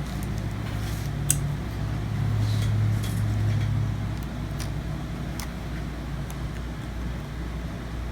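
Steady low background hum, with a few light clicks and taps from hands working on the open laptop's plastic parts and cables.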